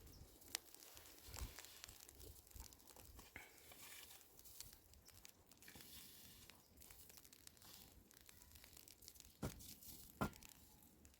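Near silence with faint scattered rustling and crackling, and two sharper clicks near the end.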